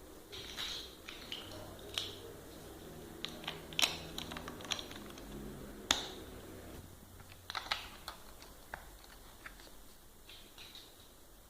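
Plastic building blocks clicking and clattering as they are handled and pressed together, in irregular small clicks with a few sharper snaps.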